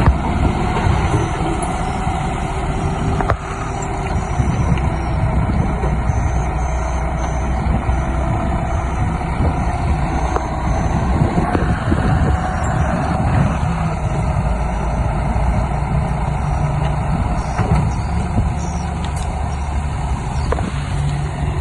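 Diesel engines of heavy earth-moving machinery running steadily, a low rumble with a faint steady whine over it.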